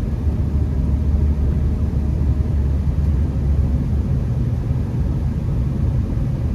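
Steady low in-cabin rumble of a Honda Accord driving slowly on a snowy road: the engine and the tyres on the road make an even drone with no sudden events.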